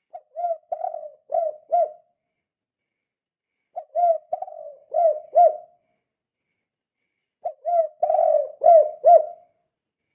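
Spotted dove (tekukur) cooing: three phrases of about two seconds each, with pauses between them. Each phrase ends in two short accented notes, the "kuk 2" song type.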